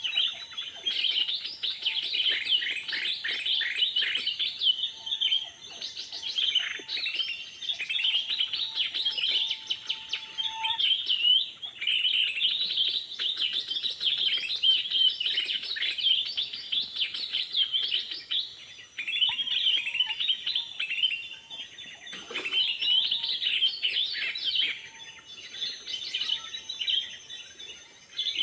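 Birds chirping and trilling continuously, many quick high calls overlapping, with a faint thin steady whistle-like tone underneath that comes and goes.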